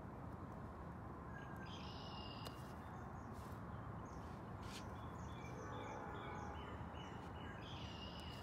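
Small birds chirping over a steady low outdoor rumble: a short run of high calls about two seconds in, and a longer string of quick chirps from about five seconds in.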